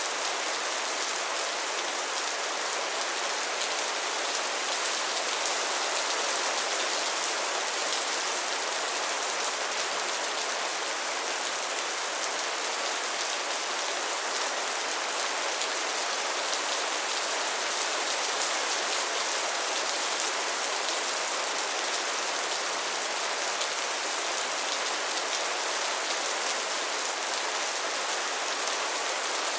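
Steady rain falling, an even hiss of many fine drops with no breaks or changes.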